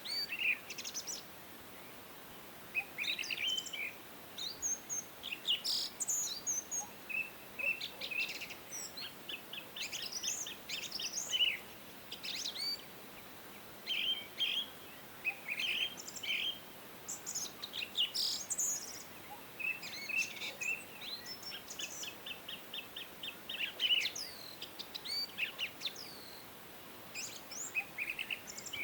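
Several songbirds singing and calling: short chirps, quick trills and rapid runs of repeated high notes, overlapping one another over a faint steady background hiss.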